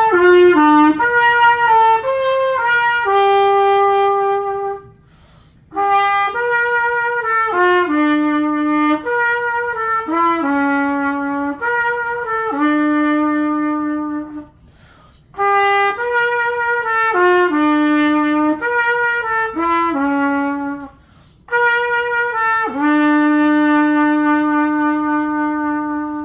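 MBAT cornet played solo: four short melodic phrases, each ending on a long held note, with brief breaks between them.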